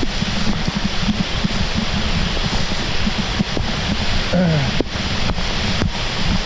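Heavy rain pouring, with drops striking the camera as sharp ticks and wind rumbling on the microphone. A short falling voice-like sound comes about four and a half seconds in.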